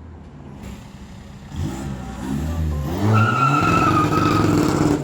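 Seat Ibiza's turbocharged engine through a straight-through 2.5-inch stainless exhaust, accelerating: the exhaust note rises in pitch over a second or so, then runs loud and steady with a high whine on top. It cuts off suddenly near the end.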